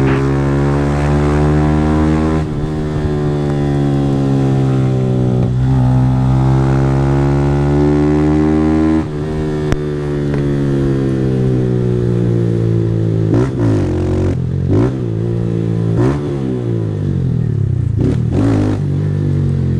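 160 cc single-cylinder motorcycle engine with an aftermarket Fortuna Trioval exhaust, accelerating hard through the gears: the pitch climbs and then drops at each upshift, about 2.5, 5.5 and 9 seconds in. After that the pitch rises and falls quickly as the throttle is opened and closed.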